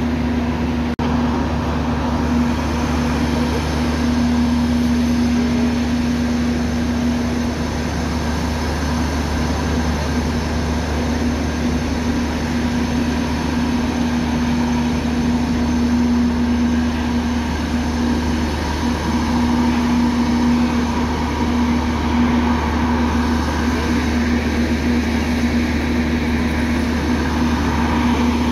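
Tren Maya train standing at the platform with its machinery idling: a steady, loud drone with a constant hum.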